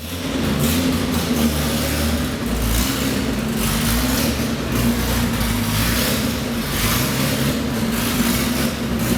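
A steady mechanical drone from a running motor or engine, with a constant low hum and no changes in pitch.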